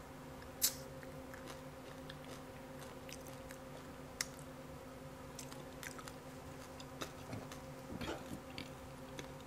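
Soft chewing and scattered small clicks as fingers pick bones out of fried catfish, the sharpest click about two-thirds of a second in and a few more near the end. A faint steady hum underneath.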